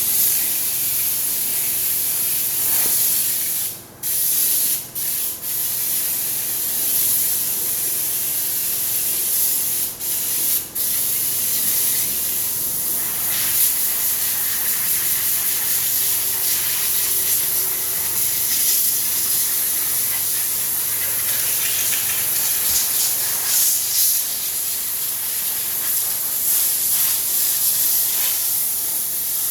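Steady hiss of a cleaning spray jet played over a Honda Civic's engine, cut off briefly a few times around four to five and ten to eleven seconds in.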